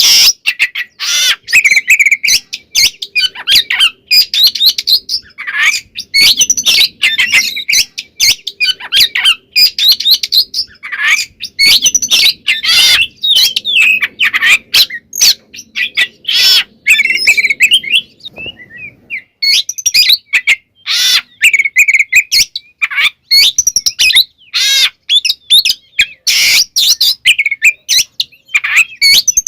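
Oriental magpie-robin (kacer) singing hard: a fast, loud, unbroken string of varied chirps, whistles and harsh notes, full of mimicked phrases, with a brief pause about two-thirds of the way in.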